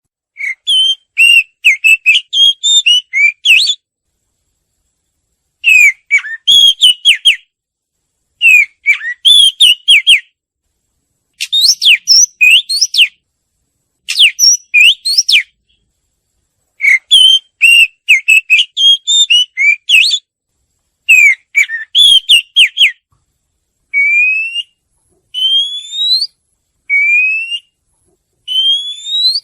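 A murai cacing songbird singing in bursts of rapid, varied whistled notes, each phrase about two seconds long with short pauses between. Near the end it switches to single clear whistles that rise in pitch, about one every second and a half. This is a lure song of the kind played to set caged birds singing.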